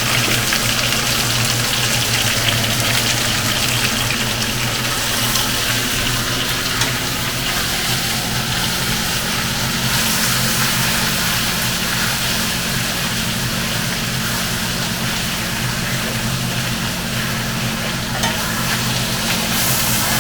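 Chicken thighs frying in a pan with a steady sizzle, over a steady low hum.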